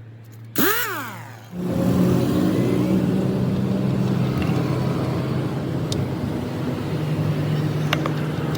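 A brief sharp sound whose pitch rises and falls, then an engine suddenly comes in about a second and a half in and runs steadily and loudly.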